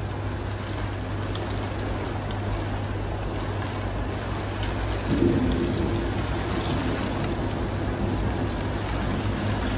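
Steady rush of heavy rain and floodwater with a low rumble underneath; about five seconds in, a louder, deeper layer joins in.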